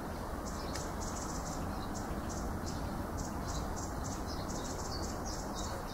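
House martin twittering at its mud nest: a steady run of short, high chirps, several a second, over a low background rumble.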